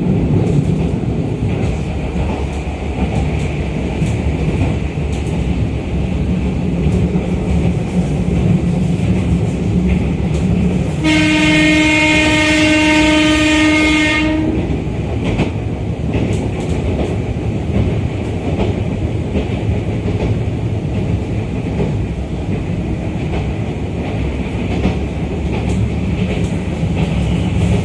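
Running noise of an Izukyu 2100 series 'Resort 21' electric train heard from inside the car by the door, with wheels on the rails. About eleven seconds in, a train horn sounds one steady note for about three seconds.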